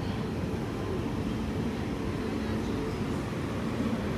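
Sampoorna Kranti Express coach running along the track: a steady low rumble of wheels on rail.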